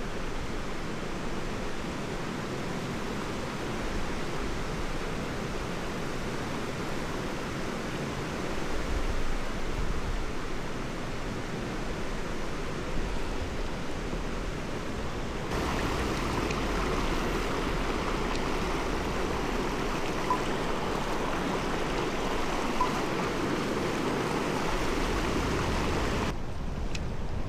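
Mountain stream rushing over rocks: a steady noise of flowing water that turns a little louder and brighter about halfway through.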